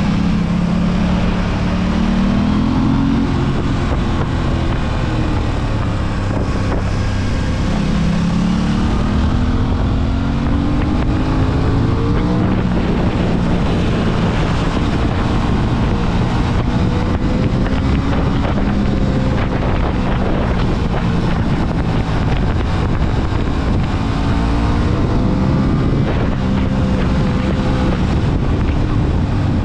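Aprilia RS 660's 659 cc parallel-twin engine pulling under load, its pitch rising through the revs several times and dropping back between pulls, with heavy wind rushing over the microphone.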